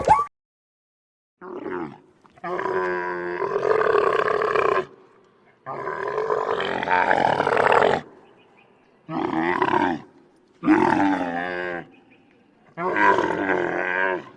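An animal calling: a series of long, pitched, rippling calls, each one to two seconds, with short pauses between.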